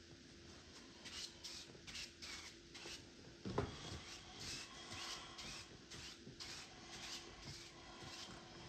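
Faint, irregular rubbing strokes of a paintbrush on canvas, with a heavier knock about three and a half seconds in.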